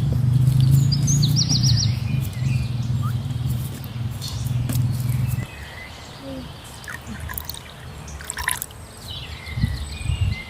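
Birds chirping in short high calls, over a steady low hum that cuts off suddenly about halfway through, with scattered light clicks and rustles.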